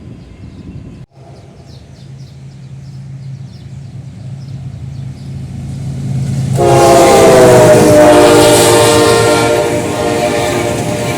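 General Electric diesel locomotive approaching with its engine rumble growing louder, then sounding a loud multi-tone horn about six and a half seconds in. The horn chord drops a little in pitch near eight seconds and is held as the train passes with a rush of wheel noise.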